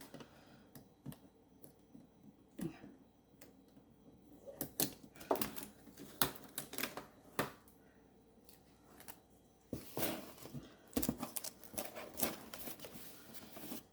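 Irregular clicks, taps and rustles of packing material and small parts being handled as a sewing machine is unpacked, in bursts with short pauses between.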